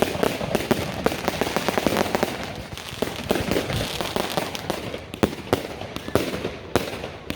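Fireworks going off in rapid succession: a dense run of overlapping bangs and crackles, with a few louder single bangs in the second half.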